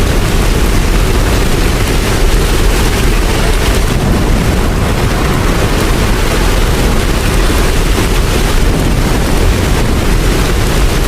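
Steady rain falling, a dense, even hiss with a deep low rumble underneath.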